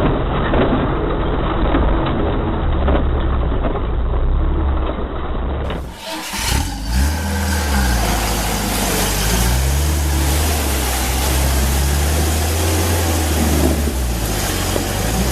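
Off-road 4x4 vehicle's engine running under load while driving, its pitch rising and falling as the driver works the throttle, with a brief drop about six seconds in.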